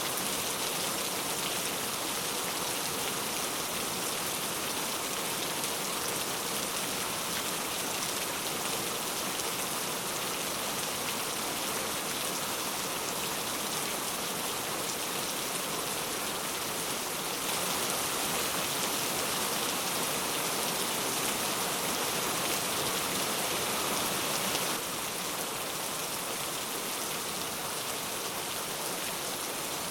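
Steady rain falling, a dense even hiss of many drops with no thunder or other events. It grows a little louder for several seconds past the middle, then settles back.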